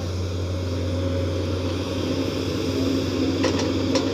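Komatsu PC210 excavator's diesel engine running steadily, with a few short sharp knocks near the end.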